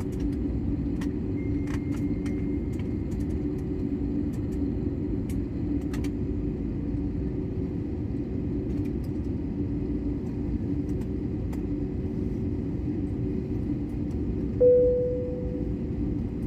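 Steady low rumble of an airliner cabin as the plane taxis after landing, with small rattles. Near the end, a single cabin chime rings and fades.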